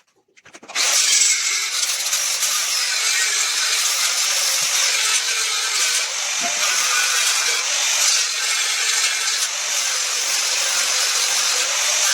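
A power tool running steadily on wood, starting just under a second in.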